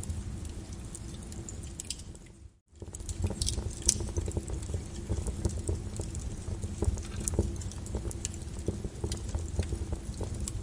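Molten lava crackling and popping in quick, irregular clicks over a low rumble. The sound fades out to silence for a moment about two and a half seconds in, then comes back.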